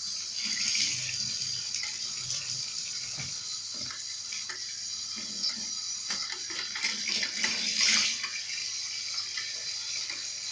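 Kitchen tap running into a sink, the water splashing as the sink is rinsed, with small clinks and knocks of things being handled in the basin.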